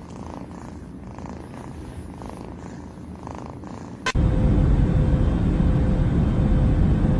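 Domestic cat purring, softly at first with a gentle in-and-out pulse about once a second. About four seconds in, a sudden cut brings a much louder, low, steady rumble.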